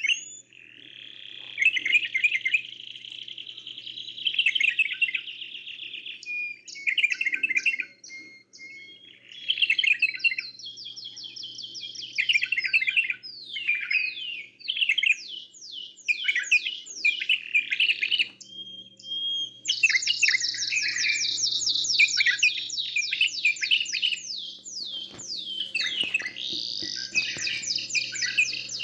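Caged canary and bulbul song: long, fast trilled rolls of rapidly repeated notes alternating with sweeping chirps and short whistles, almost without pause. A faint steady hum lies beneath.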